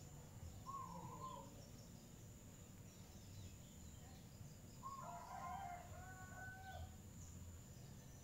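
Faint distant bird calls over low background noise: a single short call about a second in, then a run of several calls a little past the middle.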